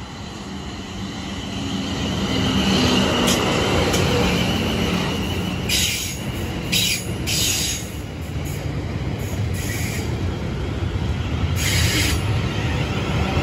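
Class 444 Desiro electric multiple unit running in along the platform, its wheel and bogie rumble growing louder over the first few seconds and then holding steady. Several short high-pitched screeches sound from about six seconds in and again near the end.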